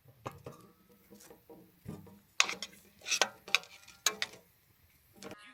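A run of sharp clicks and knocks, like things being handled and set down, with a cluster of louder clacks around the middle. It cuts off suddenly just before the end.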